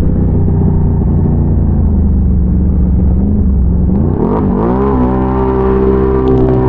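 Can-Am Renegade ATV's big-bore V-twin engine running at low, steady revs, then revving up about four seconds in and holding a higher steady pitch.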